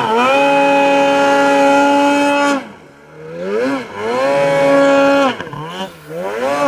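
Snowmobile's two-stroke engine revving hard. It holds high revs for about two and a half seconds, then drops off as the throttle is let go, climbs again and holds for over a second, and ends in a few shorter up-and-down surges of throttle.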